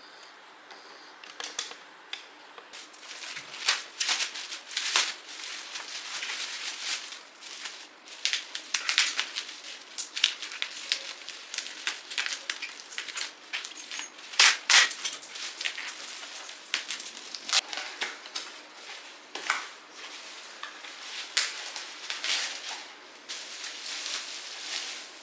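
Irregular clicks, taps and short scraping or rustling sounds of objects being handled, with no steady rhythm.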